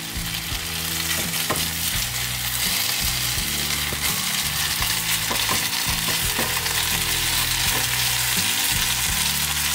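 Steamed dumplings pan-frying in a little olive oil in a non-stick frying pan: a steady sizzle, with a few light scrapes and taps of a plastic spatula turning them.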